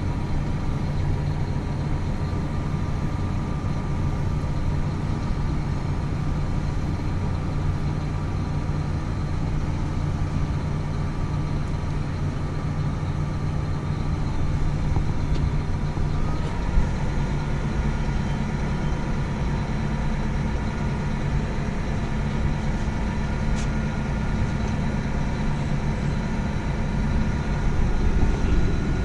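Diesel farm tractor engine running steadily under way. A little over halfway through, the engine speed steps up and holds at the higher pitch.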